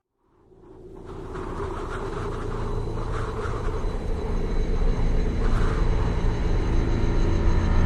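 A low rumbling drone fades in from silence over the first couple of seconds and then holds steady, with swells of hiss above it: the opening of a dark, cinematic background music track.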